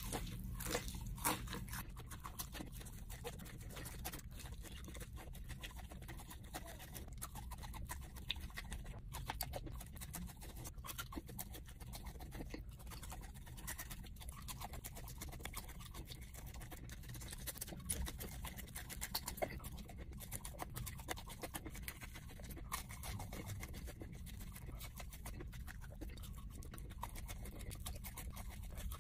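Close-up chewing and crunching of Flamin' Hot Cheeto-coated boneless chicken wings: many small crunches and wet mouth clicks, bite after bite, over a low steady hum.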